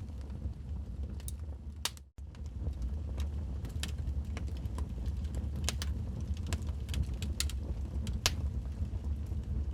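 Wood fire burning in a fireplace: logs crackling with irregular sharp pops over a steady low rumble of the flames. The sound cuts out for an instant about two seconds in.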